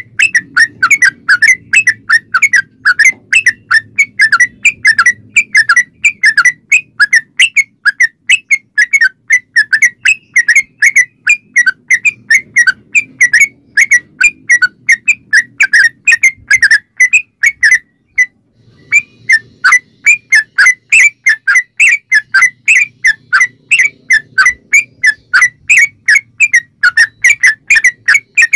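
Yellow-vented bulbul (trucukan) singing a long rapid run of short, chirpy notes, about five a second, with one brief pause about two-thirds of the way through.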